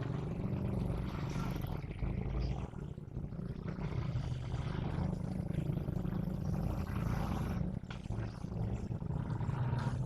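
GE diesel-electric locomotive engine running with a steady low rumble, an even drone that holds through the whole stretch, with a faint high whine at times.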